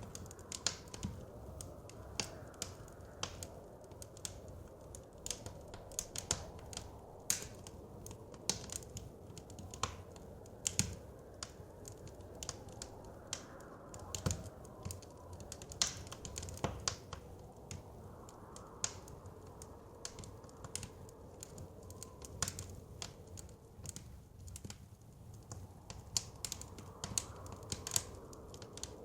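Wood fire crackling, with irregular sharp pops and snaps several times a second, over a low steady rush of blizzard wind that swells at times.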